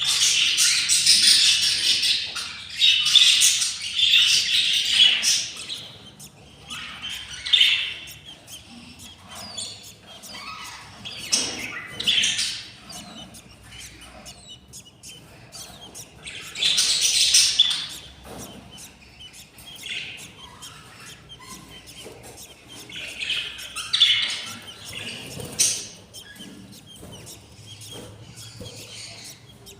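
Budgerigars chirping in bouts: a long run of high chirps at the start, then shorter bursts with quieter gaps between.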